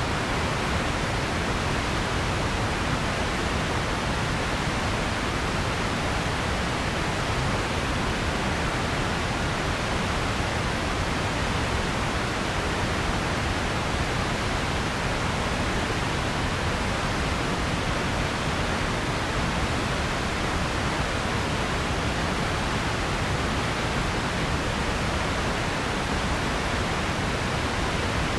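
Steady, unchanging noise hiss, like pink noise from a noise generator, with no other sounds and no change in level.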